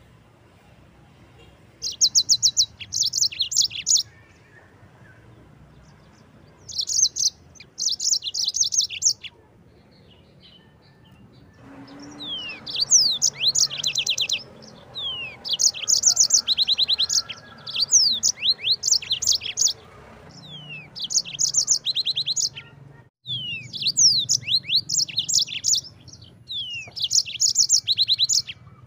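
Yellow-fronted canary (Mozambique canary) singing. It gives short phrases of rapid high trills separated by pauses of a few seconds, then from about halfway through sings almost without a break, mixing the trills with quick rising and falling notes.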